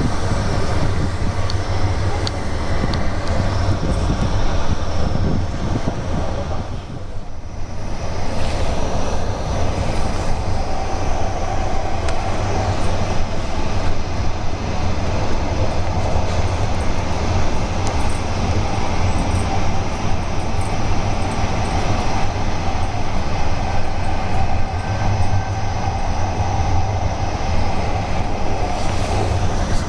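Steady running noise of the EuroCity 171 Hungaria passenger train at speed, heard from inside the carriage: a continuous low rumble of wheels on track. The noise drops briefly about seven seconds in.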